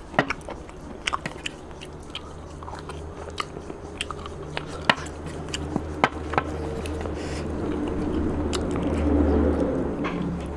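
Close-miked chewing of rice and curry eaten by hand: wet mouth clicks and smacks scattered through, over a low steady hum that grows louder near the end.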